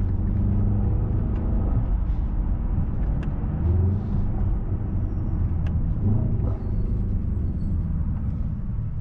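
Mercedes-AMG S63's twin-turbo V8 running under way at low pitch, its note rising and falling a few times with the throttle.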